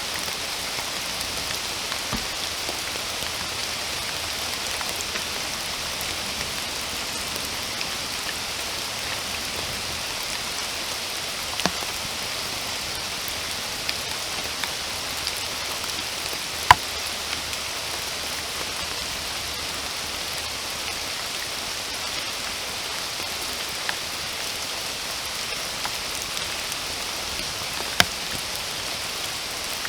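Steady rain falling, an even hiss, with a few louder single drops striking close to the microphone, the sharpest about halfway through and another near the end.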